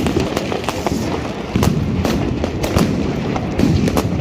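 Dense barrage of fireworks and firecrackers going off all around: many overlapping sharp bangs and cracks at irregular intervals over a continuous rumble of more distant explosions.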